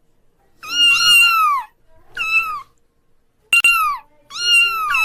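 Kitten meowing repeatedly: about four high-pitched meows, each rising then falling in pitch.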